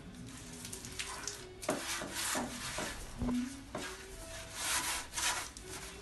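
A baking tray being greased by hand: a series of irregular rubbing strokes across its surface.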